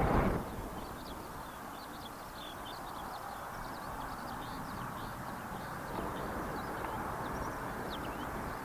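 Steady distant rush of a jet airliner's engines, growing slightly louder, with small birds chirping throughout. A brief louder rush right at the start fades within half a second.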